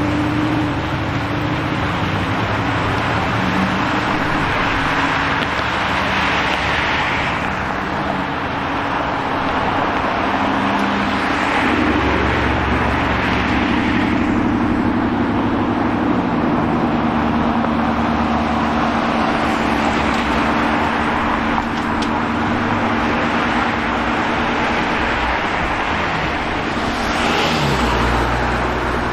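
City street traffic: a steady low engine drone with several vehicles passing by, their tyre and engine noise swelling and fading.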